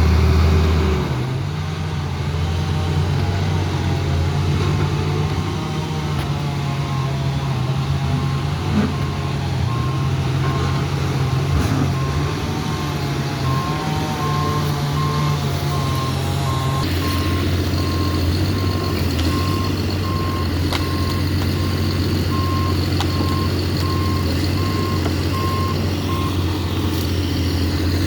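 Heavy diesel engine of a John Deere 848H grapple skidder running under changing load, its pitch shifting about a second in and again partway through, while its reversing alarm beeps steadily for most of the time as it backs up.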